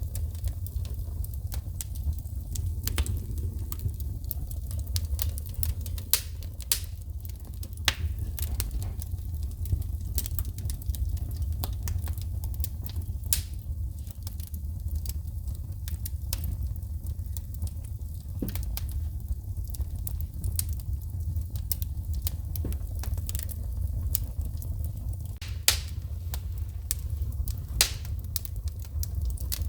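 Wood fire in a fireplace crackling, with a steady low rumble of flames and frequent sharp pops and snaps, a few of them much louder than the rest.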